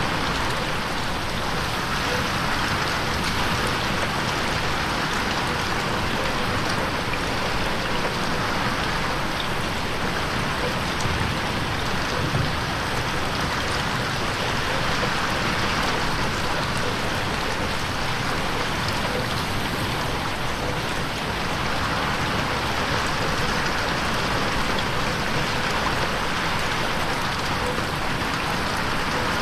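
Steady rain falling on a window, with a dense patter of drops that slowly swells and eases.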